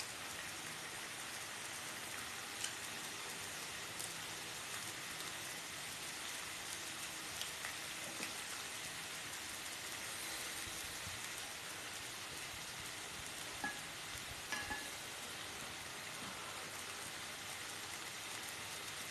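Pork slices and sausages sizzling steadily on a hot non-stick pan, with a few light clicks of utensils.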